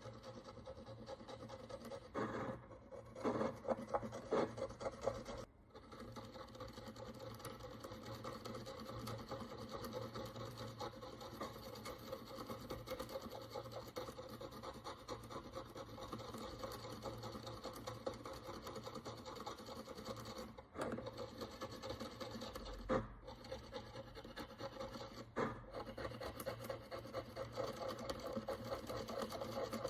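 A cleaning tool scraping and scratching at the hard crust and oxidation on an ancient Roman bronze coin, a steady gritty rasp with a few brief breaks.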